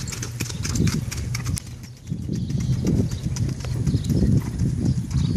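Hoofbeats of a Paso Fino horse on the move: a quick run of sharp clicks in the first second and a half, then duller, deeper thuds after about two seconds.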